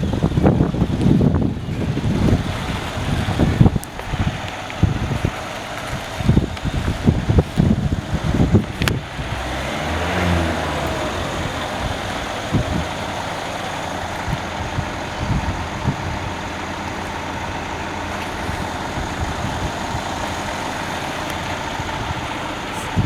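Mercedes-Benz ML63 AMG V8 engine running, uneven with low surges for the first several seconds, then settling into a steady idle.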